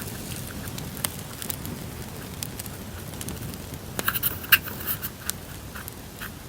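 Campfire crackling: a steady low rumble of burning with scattered sharp pops. About four seconds in comes a brief cluster of louder crackles and rustles.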